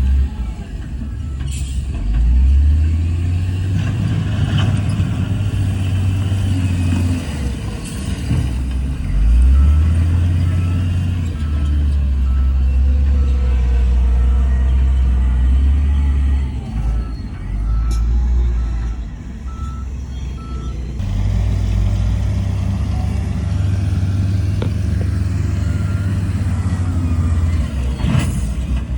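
Heavy diesel earthmoving machinery (bulldozer and dump trucks) running, its low engine rumble rising and falling under load. Through the middle a reversing alarm beeps about once a second as a truck backs up.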